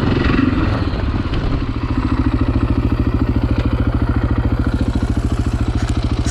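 Dirt bike engine idling steadily at close range, with a rapid, even pulse.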